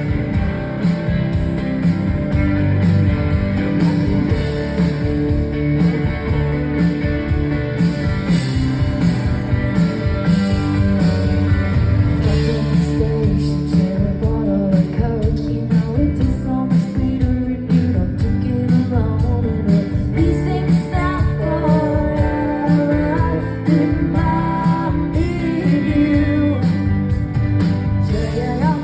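Live indie rock band playing a slow song: guitars and bass, with a woman singing over them from about halfway through.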